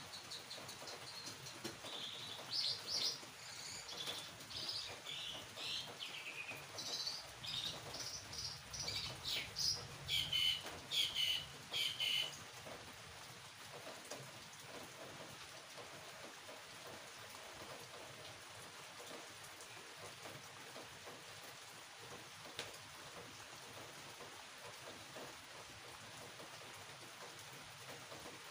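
A bird chirping in a quick run of short high notes for the first twelve seconds or so, stopping abruptly. After that only a steady faint hiss remains.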